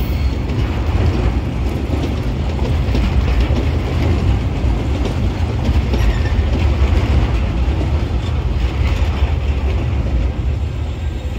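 Freight train's loaded log wagons rolling past close by: a steady rumble of steel wheels on the rails with continuous clattering. It eases slightly near the end as the last wagon goes by.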